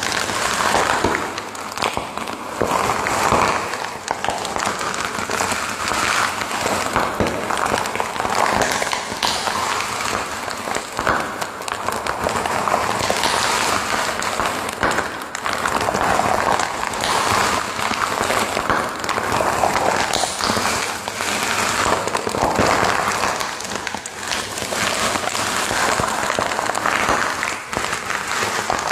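Fire crackling steadily, a dense run of irregular pops and snaps over a soft hiss.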